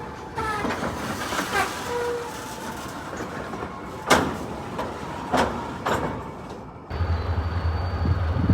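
Freight train cars rolling past, with brief wheel squeals and a few sharp clanks. About seven seconds in, the sound cuts abruptly to a deep, steady rumble.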